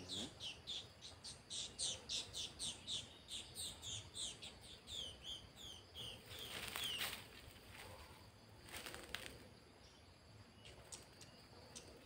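A small bird calling: a fast series of short, high, falling chirps, about three a second, that stops about seven seconds in. After that come a few faint rustles and clicks.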